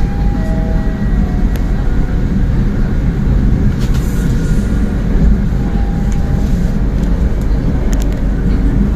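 Diesel-hauled passenger train running on the track: a steady low rumble of wheels and running gear from inside the coach, with a few faint clicks.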